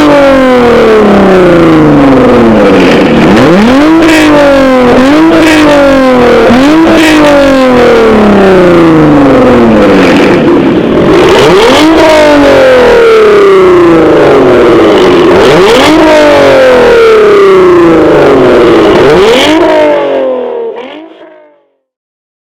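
Jeep Wrangler JL's 3.6-litre V6 revved through an aftermarket exhaust, blipped again and again: each rev climbs quickly and falls back more slowly. The sound fades out near the end.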